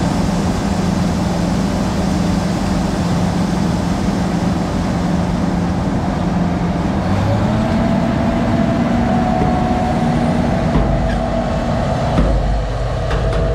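Heavy engine running steadily; its pitch steps up a little about seven seconds in, and a deeper rumble joins near the end.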